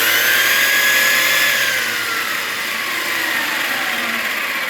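Arrma Kraton 4S RC truck's brushless electric motor and drivetrain revving at full throttle. A loud whine jumps up suddenly, holds high for about a second and a half, then winds slowly down as the wheels coast. The wheels spin fast enough for the tires to balloon.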